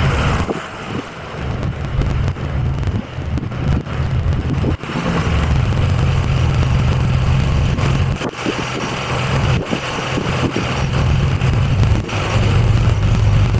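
Ford F-350's 6.0 Power Stroke diesel engine running while the truck is moved, its low drone swelling and dipping.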